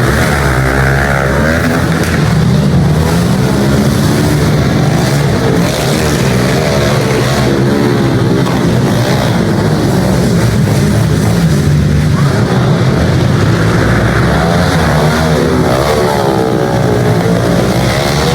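Several pit bike engines revving hard and dropping back in turn as the bikes race, their pitches rising and falling over one another continuously.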